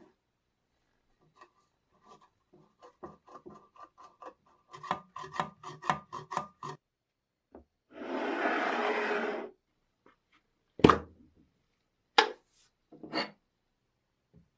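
A hand tool rasping back and forth in a quickening run of strokes, which get louder about five seconds in. Then comes a hiss lasting about a second and a half, and three sharp knocks.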